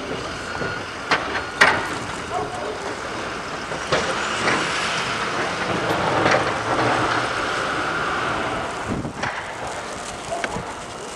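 Heavy vehicle noise with a hiss, broken by several sharp knocks and clanks.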